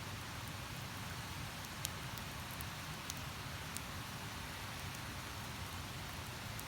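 Steady rush of a flowing river with a few sharp crackles from a wood campfire.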